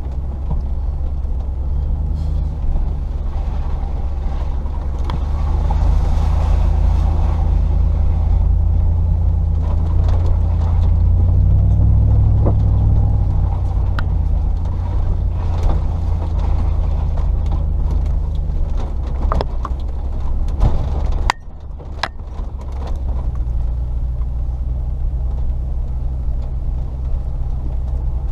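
Range Rover P38's 4.0 litre V8 engine running while the vehicle is driven slowly along a rough track, with scattered knocks and rattles. The engine note rises about twelve seconds in and drops sharply a little past twenty seconds before picking up again.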